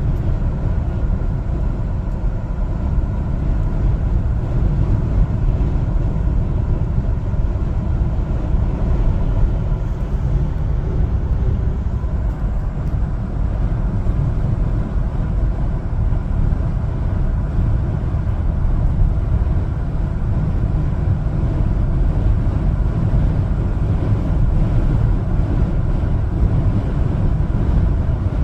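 A one-ton LPG cargo truck driving at a steady pace: a constant low engine and road rumble with no changes in pitch or level.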